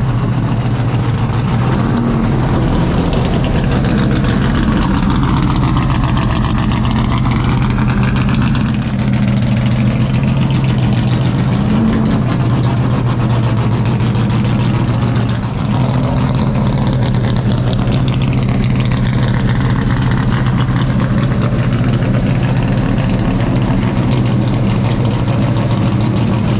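NASCAR stock car's American V8 engine idling, a loud steady rumble that holds at one pitch without revving.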